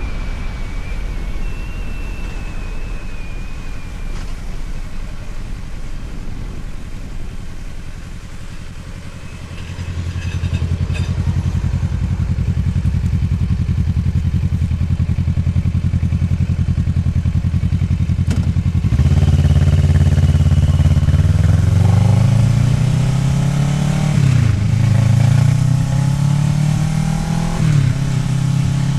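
Kawasaki Ninja 650R's parallel-twin engine under way. It runs quietly at first, then harder from about a third of the way in, and from about two-thirds of the way in it accelerates louder with rising pitch, dropping back at two upshifts near the end.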